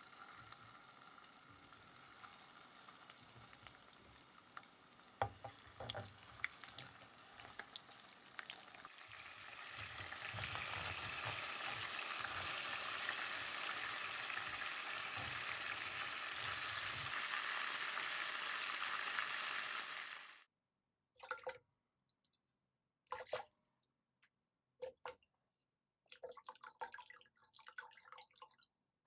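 Food cooking in a pan: a low simmer with a few sharp utensil clicks, then loud sizzling for about ten seconds that cuts off abruptly. After it come several short, separate bursts of kitchen sound.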